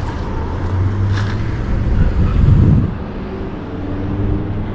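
A motor vehicle's engine running close by with a steady low hum, growing louder about two and a half seconds in, over road traffic noise.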